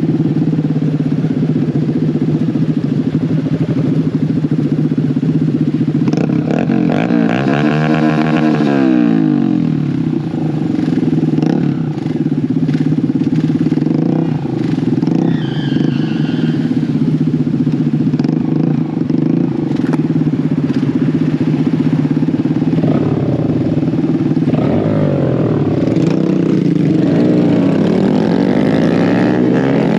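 Mini bike engine running steadily under way. It revs up and back down about eight seconds in, and climbs again near the end.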